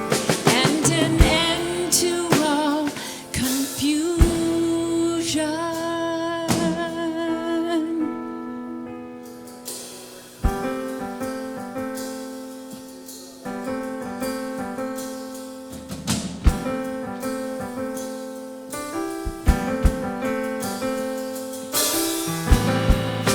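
Live band playing an instrumental passage of a gospel rock song: a held, wavering melody line over drums for the first several seconds, then repeated keyboard chords with drum hits.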